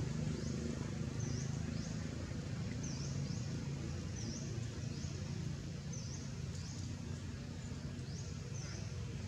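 A bird calling repeatedly in short, high chirps, each a quick down-and-up or rising note, about once a second, over a steady low rumble.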